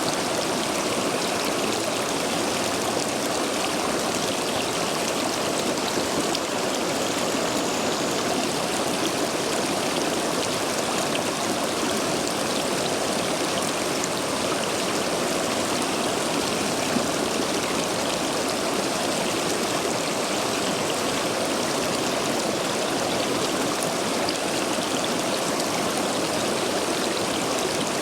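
River water rushing steadily through a line of stepping stones in a stream swollen by recent heavy rain, an even splashing wash with no pauses.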